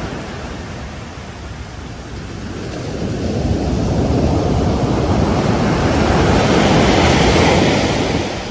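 Ocean surf on a beach: a steady wash of waves, with one wave building about three seconds in, breaking loudly and dying away near the end.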